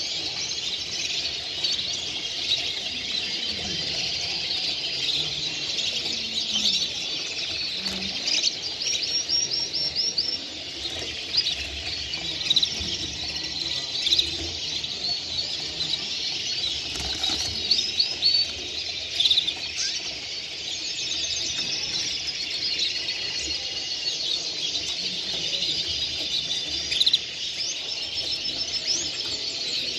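A dense chorus of many caged songbirds singing and chirping at once, with fast trills standing out above the mass every few seconds.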